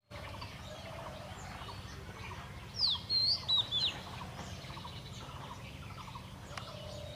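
Common Iora singing one loud, short phrase of about four quick sliding whistled notes, about three seconds in, over faint repeated chirping of other birds and a steady low hum.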